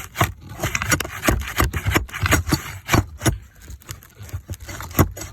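Shingle ripper scraping and knocking against wood shakes as it is worked under a shake to cut its staples, a string of irregular sharp knocks and scrapes.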